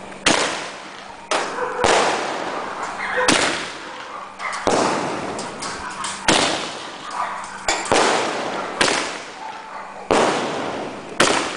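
A 13-shot fireworks cake barrage firing shot after shot from its large mortar tubes. There are about nine sharp bangs, roughly one every one to one and a half seconds, and each is trailed by a fading hiss.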